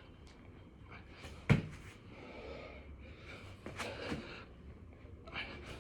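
A person's heavy, gasping breaths during six-count burpees, with one sharp thud on the floor about one and a half seconds in.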